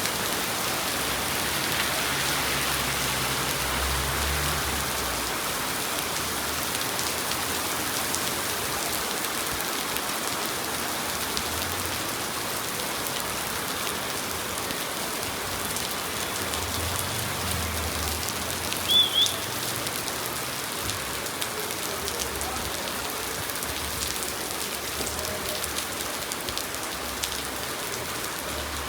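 Heavy rain falling steadily, the patter of many drops hitting surfaces. About two-thirds of the way through, a short high chirp sounds twice.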